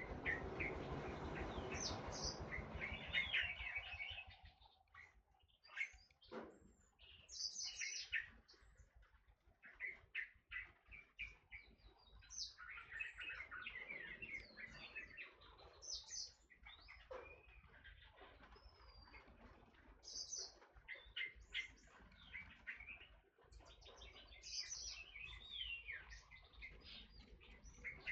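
Forest oriole (kepodang hutan) calling: a run of short chirps and whistled notes, irregular, with a dense noisy stretch with low rumble in the first few seconds.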